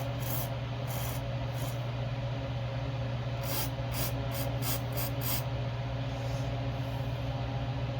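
Aerosol brake cleaner sprayed in short spurts through a small-engine carburetor main jet to flush it out. Around a dozen brief hisses, a quick cluster of them about halfway, over a steady low hum.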